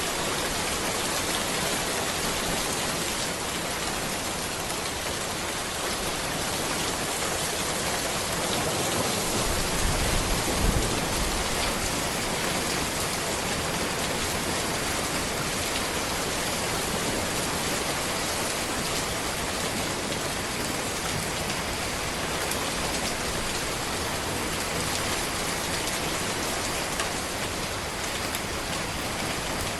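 Steady rain falling on a road, a dense even patter with no let-up. A brief low rumble swells about ten seconds in.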